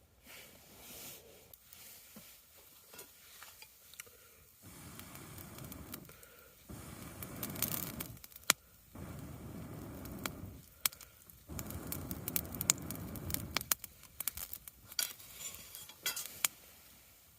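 Camp cookware and tableware being handled: sharp clinks and scrapes, with several stretches of sizzling or rushing noise lasting a second or two each, starting about five seconds in.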